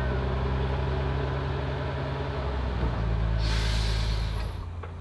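Narrow-gauge train pulling out past the platform: a steady low engine drone under the rolling carriages, with a short sharp hiss of air about three and a half seconds in. The sound falls away near the end as the train draws off.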